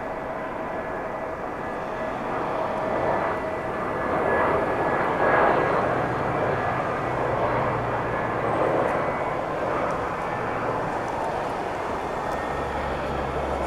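Passenger jet taking off, its engine noise swelling to a peak about five seconds in and then easing off, with a thin steady whine running through it.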